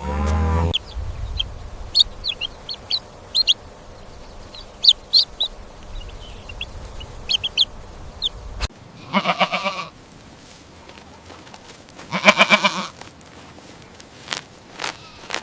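Small birds chirping in short high peeps, then two quavering goat bleats about three seconds apart.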